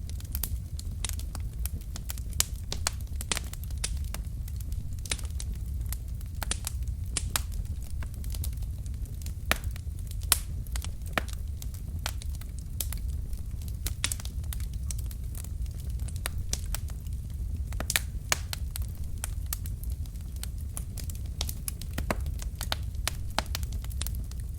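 Wood fire burning in a fireplace: a steady low rumble of the flames with frequent, irregular sharp crackles and pops from the burning logs, a few of them louder.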